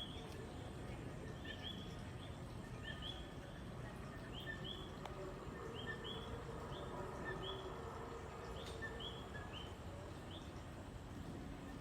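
Common coquí tree frogs calling, short two-note chirps that sweep upward and repeat over and over. Underneath runs a steady low hum.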